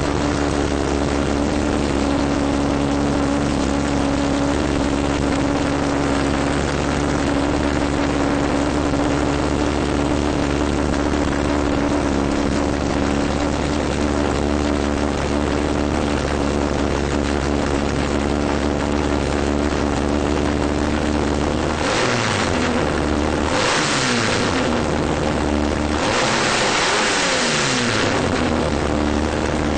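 Honda B-series 2.1-litre DOHC VTEC four-cylinder on individual throttle bodies idling steadily, then revved three times near the end, each blip rising and falling in pitch with a loud intake rush, the last held for about two seconds.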